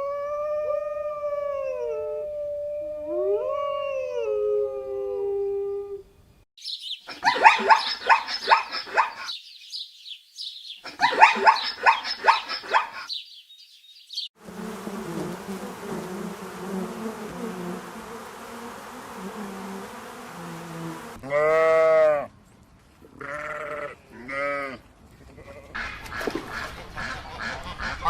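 Several different animal calls, one after another. First a long call that glides up and down in pitch. Then two bursts of rapid rattling calls, a stretch of rougher noise with low drawn-out calls, and several short pitched calls near the end.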